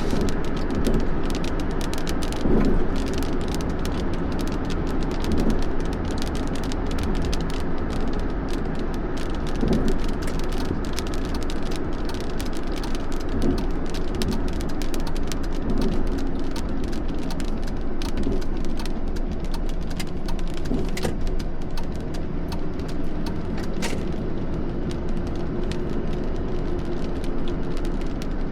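Thunderstorm rain and wind: a steady low rumble under a dense patter of sharp raindrop ticks.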